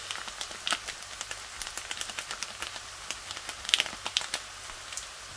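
Oil crackling and spitting under cooked rice in a frying pan on low heat, with irregular small pops and a cluster of louder ones about four seconds in.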